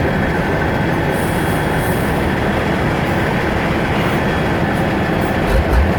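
Tatra 815 truck's diesel engine working under load: a loud, steady, heavy rumble with a few deep low thumps near the end.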